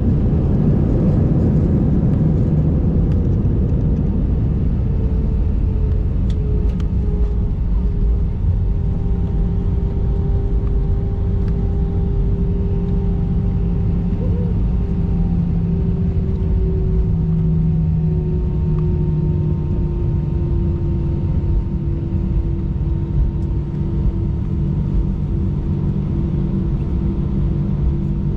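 Airbus A319 cabin noise during the landing rollout: a loud, steady low rumble with the jet engines' tones gliding slowly downward as they spool down and the airliner slows.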